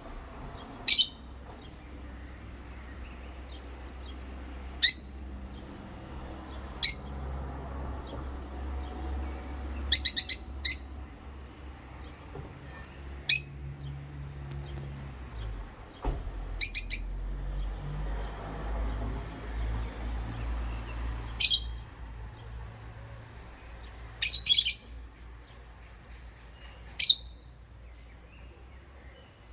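Rosy-faced lovebirds giving short, sharp, high-pitched chirps, one at a time or in quick runs of two or three, every few seconds.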